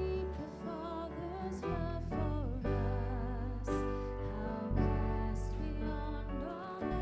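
Slow worship music from a church praise team: piano over sustained low bass notes, with a melody line carried in vibrato.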